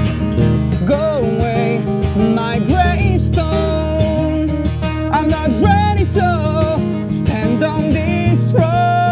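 Acoustic guitar strummed steadily, with a voice singing long, held, sliding notes over it from about a second in.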